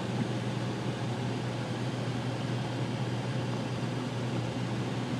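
Steady road noise inside a moving car's cabin: engine and tyres on a wet road, with a constant low hum.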